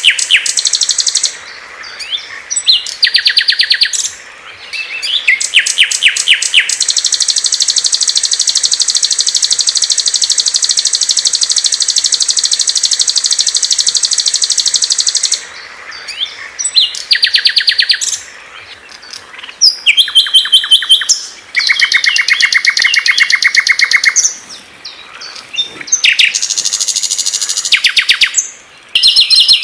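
Small songbirds singing loud, clear, high-pitched songs: rapid trills and chirp runs, including one long unbroken trill lasting about eight seconds, switching abruptly between different birds' phrases as in an edited song compilation.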